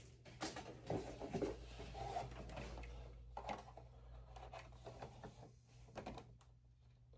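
Light clicks, taps and rustles of small objects being handled and set down on a work surface, over a faint steady low hum.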